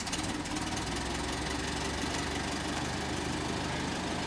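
1909 Ford Model T four-cylinder engine, just started by hand crank, running at a steady idle.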